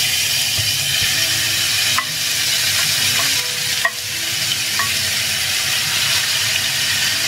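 Shredded fruit and chili hitting hot mustard oil with panch phoron in a frying pan, sizzling steadily, with a few light taps of a wooden spatula pushing the food off a plate into the pan.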